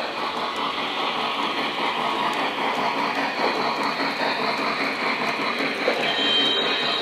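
Lionel model train running along its track, a steady running noise of wheels and motor on the rails, with a faint high tone near the end.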